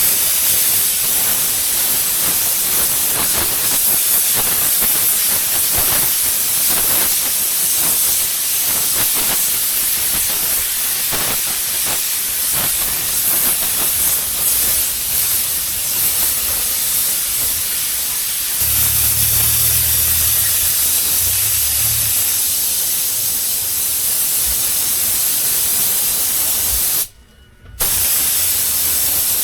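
Spray gun hissing steadily as compressed air atomises base-coat paint. A low hum joins about two-thirds of the way through, and the hiss drops out for about half a second near the end.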